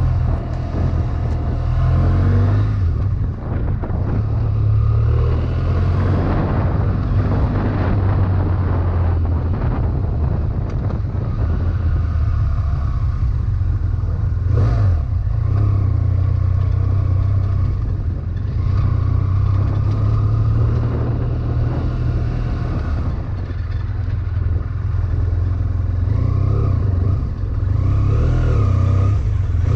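2011 BMW F800ST's parallel-twin engine running while the bike is ridden, its note shifting up and down a little with the throttle, over road and wind noise.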